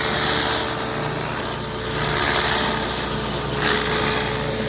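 Gas-engine pressure washer running steadily, with the hiss of its high-pressure water spray swelling and fading.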